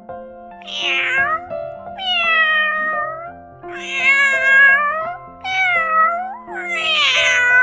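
A domestic cat meowing about five times, each meow a drawn-out call rising and then falling in pitch, over light background music for children.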